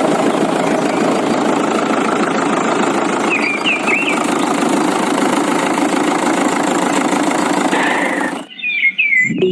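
An engine running steadily with a rough, noisy sound, which cuts off abruptly about eight and a half seconds in. Short bird-like chirps sound over it about three and a half seconds in and again near the end.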